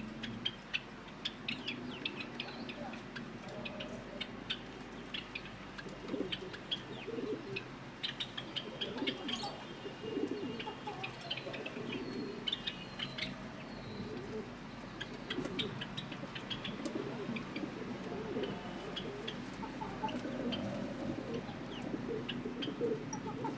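Pigeons cooing over and over, mixed with many short, high chirps from small birds.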